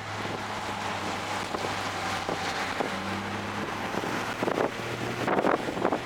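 Toyota GR Corolla's turbocharged 1.6-litre three-cylinder engine running at a fairly steady pitch while driven on track, under loud wind and road noise. A few sharp knocks come about five seconds in.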